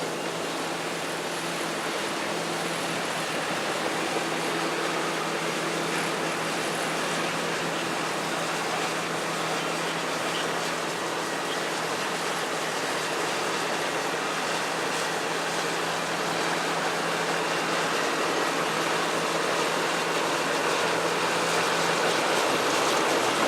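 Caterpillar bulldozer's diesel engine running steadily under a steady rushing noise; the engine's hum fades out near the end while the rushing goes on.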